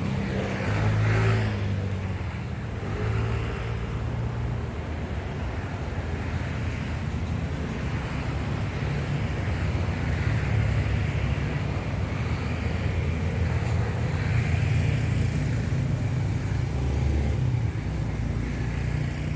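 Steady low rumble of aircraft engines, with shifting low tones under a broad wash of noise.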